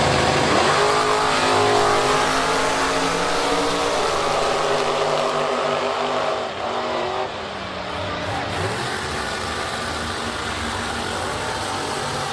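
Piston-engined drag race car accelerating hard down the strip, its engine note climbing and stepping through gear changes, then dropping in level after about six seconds as it pulls away.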